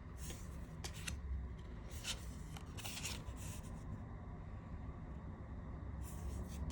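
Tarot cards being handled during a flip-through, the card stock sliding against itself in a few brief, soft swishes.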